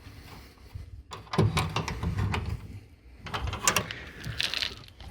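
Several short bursts of knocking, scraping and rustling, the first about a second and a half in and the last near the end.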